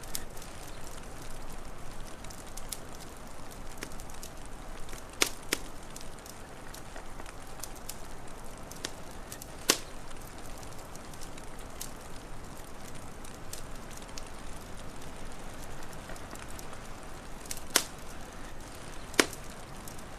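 Wood fire crackling over a steady hiss, with about five sharp, loud pops scattered through.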